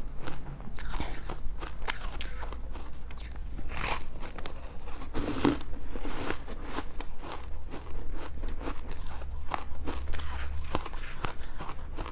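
Ice being bitten and crunched between teeth close to the microphone, a rapid, irregular run of sharp crunches with no pauses.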